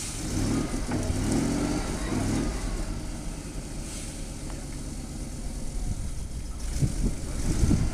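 ZIL-131 off-road truck's V8 petrol engine working hard: it revs up about half a second in and holds for a couple of seconds, then eases to steadier running, with louder surges near the end.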